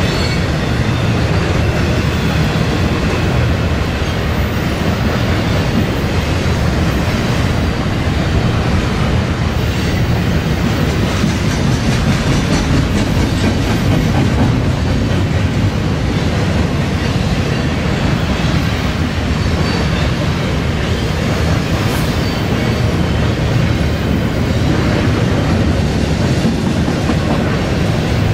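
Double-stack intermodal well cars of a BNSF freight train rolling past: the steady, loud noise of steel wheels on the rails.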